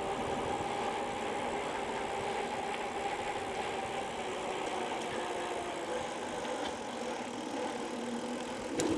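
Bicycle rolling fast on pavement: a steady hum with a few level tones from the tyres and drivetrain. A sharp click just before the end.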